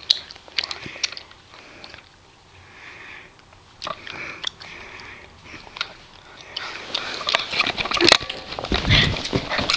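A dog sniffing in short noisy puffs, then scuffling and bumping sounds that grow louder near the end.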